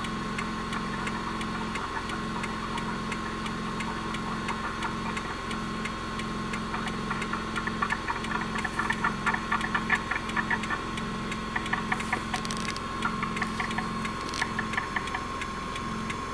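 Car engines idling and creeping at walking pace, a steady hum, with a run of quick ticks from about seven seconds in that fade out near the end.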